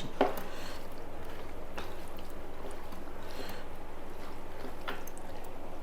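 Faint soft sounds of a person eating rice and dal by hand, a few light clicks spaced about a second and a half apart, over a steady background hum.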